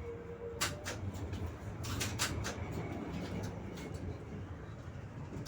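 Inside a moving tram: a steady low rumble with sharp clacks and knocks, one under a second in and a cluster of several about two seconds in. A faint steady tone stops just under a second in.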